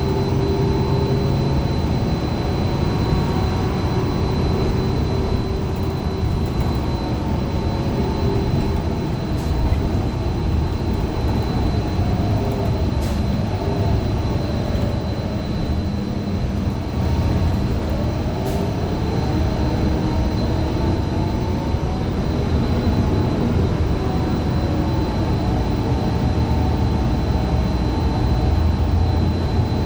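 Interior noise of a 2015 Gillig Low Floor 40-foot CNG bus under way: its Cummins Westport ISL G engine and Allison B400R transmission running over a steady road rumble, with drivetrain tones that rise and fall as the bus changes speed and a faint steady high whine. The uploader calls the transmission messed up.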